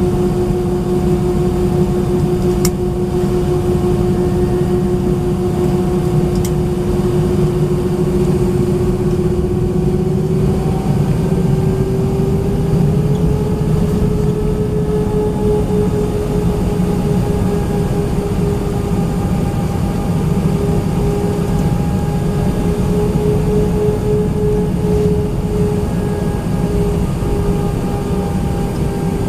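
Inside the cabin of an Airbus A319, the IAE V2500 turbofan engines give a steady rushing drone with a hum. The hum rises a little in pitch about eleven to thirteen seconds in, then holds.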